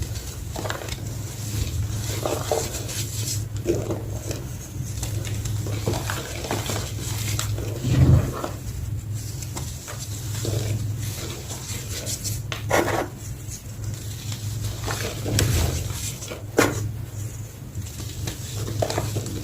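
A small block of gym chalk being crunched and crushed, with irregular crackly crunches every second or two and a steady low hum underneath.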